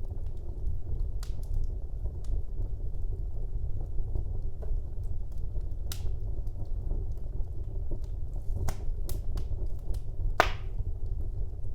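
Wood fire burning in a fireplace: a steady low rumble of flames with scattered crackles and pops from the burning logs, the loudest pop about ten seconds in.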